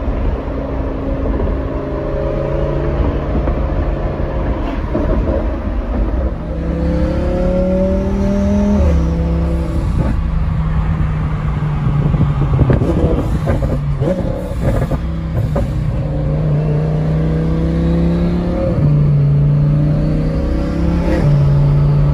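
Twin-turbocharged Lamborghini Huracán's V10 engine, heard from inside the cabin, pulling through the gears. Its pitch climbs under acceleration and drops back sharply at each upshift, several times over.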